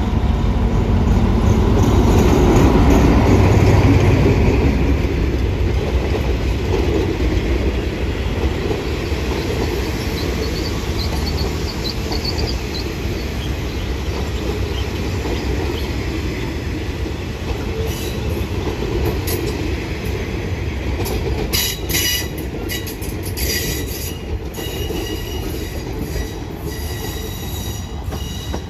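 Alsthom diesel-electric locomotive No. 4145 passing close by at the head of a passenger train, loudest in the first few seconds, then the steady rumble of the coaches rolling past on the rails. About two-thirds of the way through come a cluster of sharp metallic clicks and brief squeals from the wheels.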